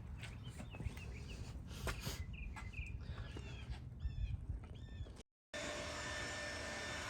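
Scattered light metallic clicks and knocks of hand tools, with a few short bird chirps about four to five seconds in. After a sudden brief dropout, a steady noisy hum with faint steady tones.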